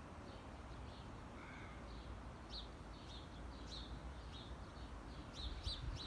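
Faint chirping of small birds: short high chirps repeating a few times a second, growing busier toward the end, over a low steady background rumble.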